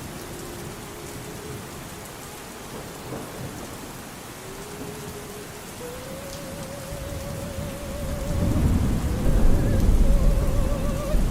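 Steady rain with a low thunder rumble that swells past the middle and is loudest near the end. A faint sung opera voice with vibrato comes in beneath it about halfway through.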